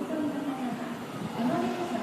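A voice speaking over steady railway-platform background noise.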